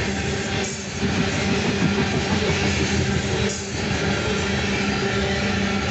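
Loaded coal hopper cars of a fast freight train rolling past: a steady, loud noise of steel wheels on rail with a low, even hum underneath. The sound dips briefly twice.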